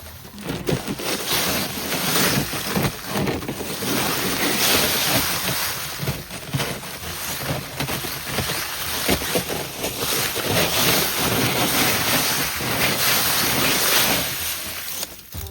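Loud rushing wind buffeting the microphone, with irregular low thumps throughout.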